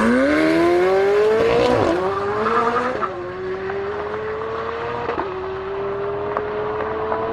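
Tuned McLaren 720S twin-turbo V8 at full-throttle acceleration, the engine pitch climbing through the revs with quick upshifts about two, three, five and seven seconds in. After the second shift the sound grows duller and quieter as the car pulls away.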